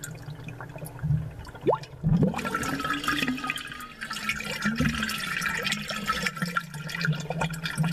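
Aquarium bubbles picked up close and amplified: gurgling bubbles with short rising chirps over a steady low hum. About two seconds in, the bubbling turns denser and hissier.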